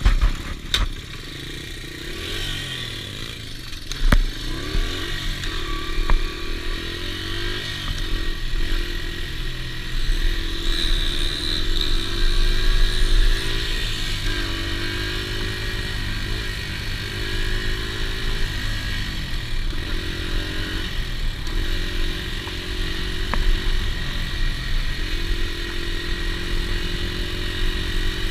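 Dirt bike engine running and being ridden, its pitch rising and dropping again and again, like a run up through the gears. A few sharp knocks sound in the first few seconds.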